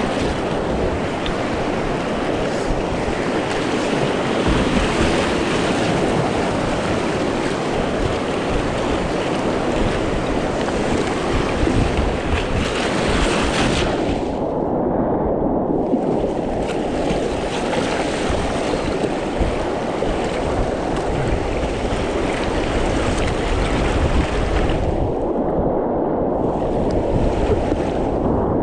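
Rushing whitewater of a small class 1–2 creek rapid, a steady loud rush with wind buffeting the microphone. Twice the sound turns briefly dull, losing its upper hiss, about halfway through and again near the end.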